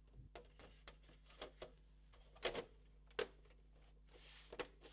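Light plastic clicks and taps as the top cover panel of a PS4 Pro console is fitted and snapped into place, a few scattered knocks with two sharper clicks in the middle.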